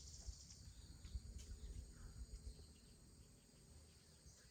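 Near silence, with faint insects chirping in a steady high trill that is most distinct at the start.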